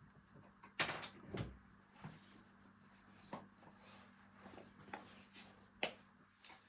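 A few faint, irregular knocks and light scrapes of hand carving work on a beech wood cup, the sharpest knock about a second in and another near the end.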